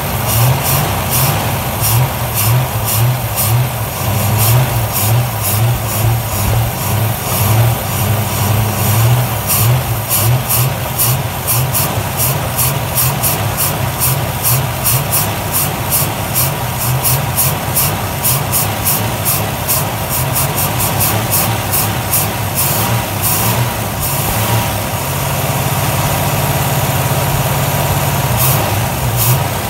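The V8 engine of a 1975 Rover P6 3500 idling steadily, first running after standing unused since 1989, with a rapid, sharp ticking over the low running note. About 25 seconds in, the running note turns smoother and steadier.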